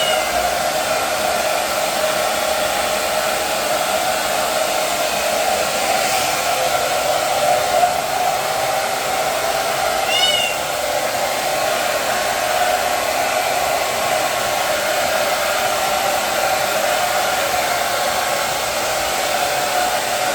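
Hair dryer blowing steadily with an even motor hum, drying a wet kitten. A single short, high kitten meow rises over it about halfway through.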